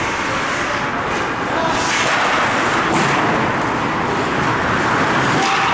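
Steady noisy din of an ice hockey game in a rink, broken by a few sharp knocks of sticks and puck.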